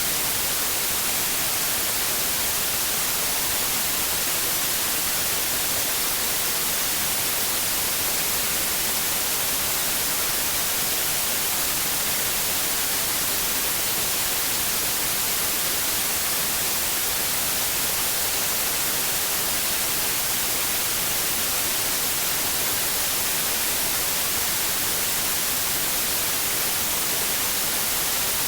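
Steady white noise, an even hiss strongest in the upper frequencies, unchanging throughout.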